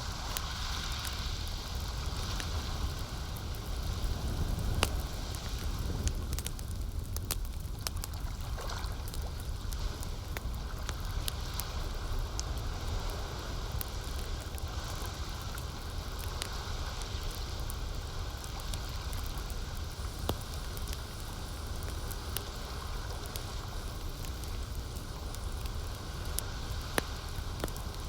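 Campfire crackling, with scattered sharp pops, over a steady wash of lake water and a low rumble.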